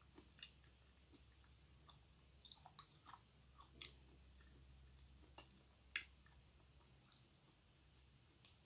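Faint close-miked chewing of raw pork liver: scattered soft, wet mouth clicks and smacks, with two sharper clicks a little past the middle.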